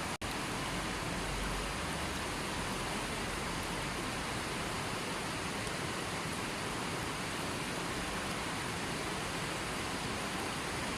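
Steady, even rushing of water, with no birds or other distinct sounds. Just after the start there is a split-second dropout where the sound cuts out and comes straight back, as at a splice in the recording.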